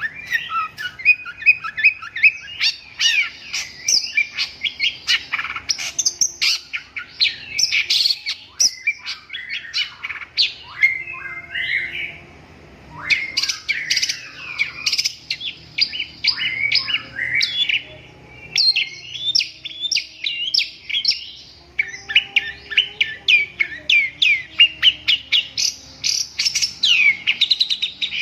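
Long-tailed shrike (cendet) singing a fast, varied, chattering song of quick high notes, sweeps and trills. It breaks off briefly about twelve seconds in and again about twenty-one seconds in.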